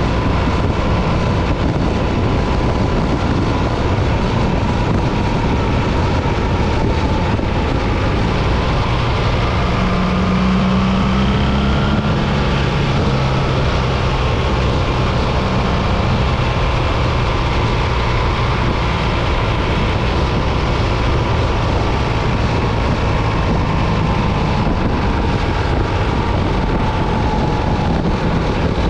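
BMW R 1300 GS boxer-twin motorcycle ridden at a steady speed: the engine runs under a constant rush of wind noise.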